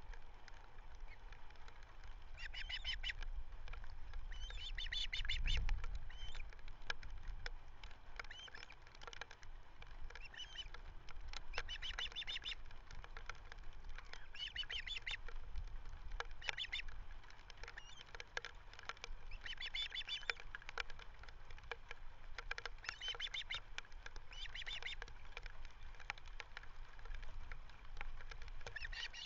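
Ospreys calling at the nest: short bursts of rapid, high chirping repeated every few seconds. Wind rumbles on the microphone around five seconds in.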